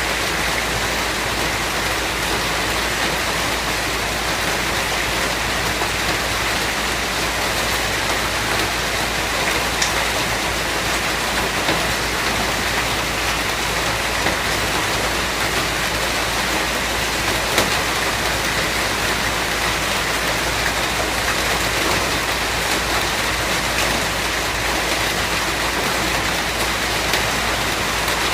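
Steady rain, an even hiss of drops falling on a surface, with a few louder single drops standing out now and then.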